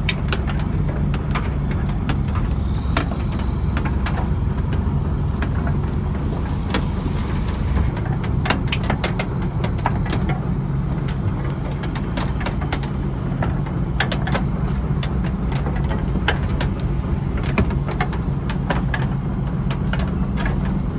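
Fishing trawler's inboard diesel engine running steadily at a constant pitch, with many scattered sharp clicks and knocks over it.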